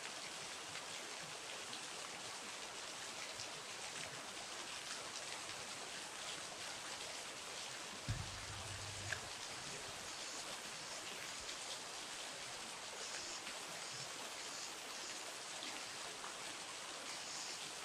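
River water running steadily, an even rushing hiss, with a brief low thump about eight seconds in.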